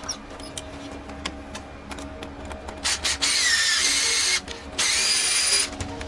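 Cordless power drill-driver run in two bursts, the first about a second and a half, the second just under a second. In the first burst the motor whine drops in pitch as it takes load, then holds steady.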